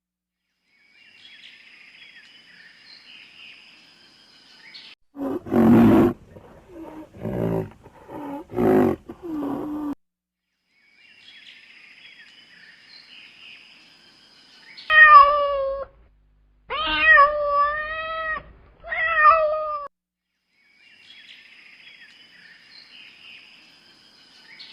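Animal calls: a run of about five short, rough, low calls, then later three drawn-out, pitched, wavering cries about a second long each, with faint background noise between them.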